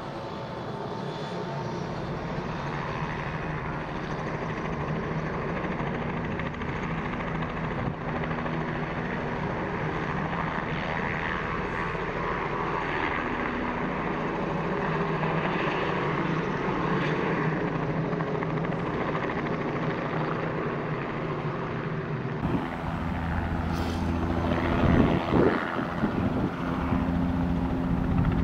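A helicopter's engine and rotor running, a steady hum that slowly grows louder. Near the end come stronger, heavier low pulses from the rotor.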